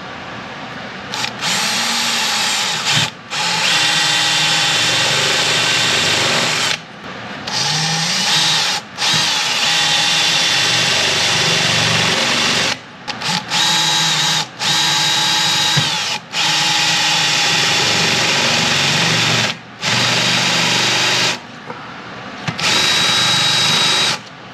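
Power drill running in repeated bursts of one to four seconds, stopping and starting about nine times, as a countersink bit made for wood cuts countersunk holes in a metal strip.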